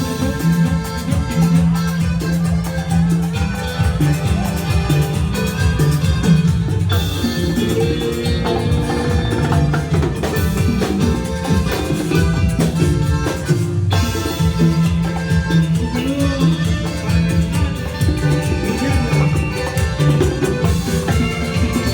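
A band playing Latin dance music with drums and percussion over a steady bass line and a steady beat.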